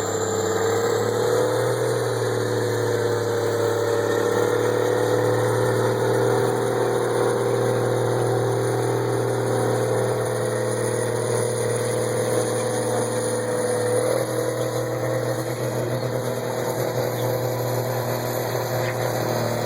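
Tractor engine running steadily under load while pulling a sled. Its pitch rises slightly about two seconds in and wavers briefly about fourteen seconds in.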